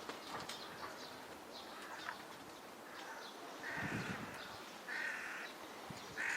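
A crow cawing: three harsh caws about a second apart in the second half, with faint chirps of smaller birds behind them.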